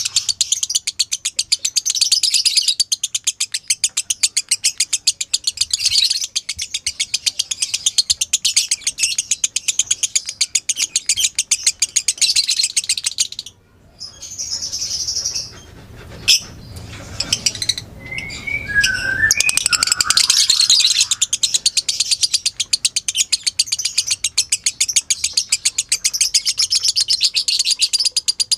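Lovebird giving its long 'ngekek' chatter, a fast run of sharp, high repeated notes. The run breaks off about halfway for a few seconds of quieter calls, a single sharp click and a couple of sliding notes, then starts again and carries on.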